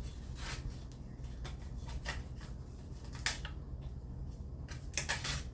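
A few light clicks and taps, with a small cluster near the end, from tools and sharpener parts being handled, over a steady low hum.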